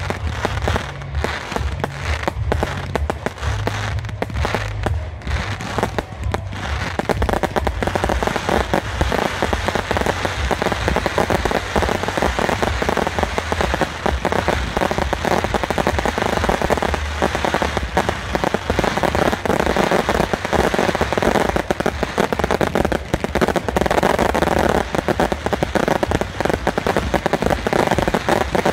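Fireworks display going off: dense, rapid crackling over deep booming, thickening into an almost continuous crackle after about seven seconds.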